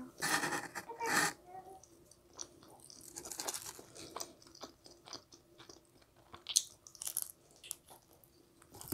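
Close-miked eating of pizza: crunching and chewing of the crust, with small wet mouth clicks. A rustling handling noise comes in the first second, and a sharper bite-crunch comes near the end.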